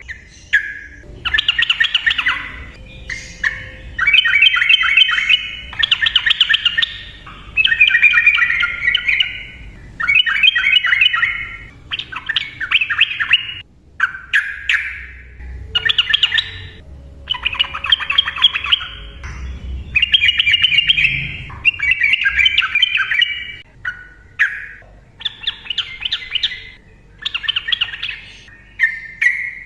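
Sooty-headed bulbul (trucukan) singing in repeated bursts of quick chattering notes, a new phrase about every two seconds, with only short pauses: the bird's excited, combative 'narung' song.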